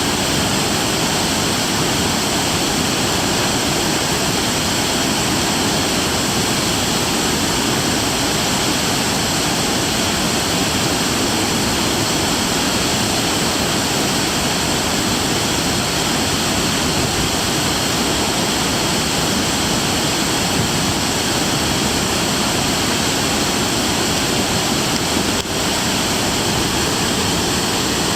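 Ogawa Falls, a waterfall, pouring with a loud, steady rush of falling water and no let-up.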